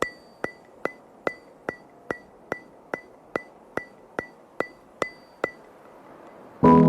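A steady series of sharp ticks, fourteen in all at about two and a half a second, each with a brief bright ring, stopping about five and a half seconds in. Soft piano music starts just before the end.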